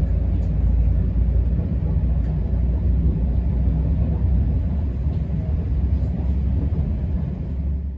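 Steady low rumble of a West Midlands Railway Class 172 diesel multiple unit running along the line, heard from inside the passenger carriage.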